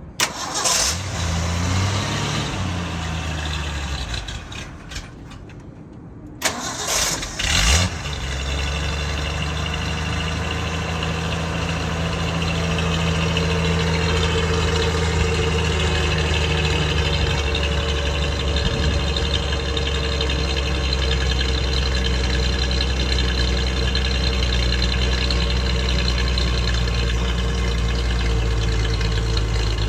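1966 Ford Bronco engine on a cold start: it fires and runs for a few seconds, then dies out. About six seconds in it is cranked again, catches about two seconds later and settles into a steady idle.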